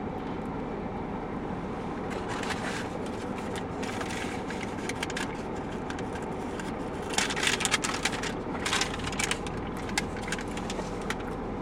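A chili cheese dog being bitten into and chewed, with crackly clicks and rustles that come thick about seven seconds in, over a steady low hum.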